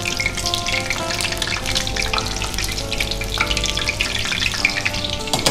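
Breaded chicken fillets, coated in flour and egg with parmesan, sizzling with a steady crackle in hot oil in a frying pan while they are turned over with metal tongs.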